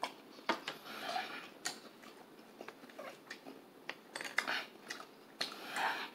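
Close-miked chewing of a crunchy cornmeal-battered corn dog: a string of short crisp crunches and wet mouth clicks, with a longer noisy stretch about a second in and another near the end.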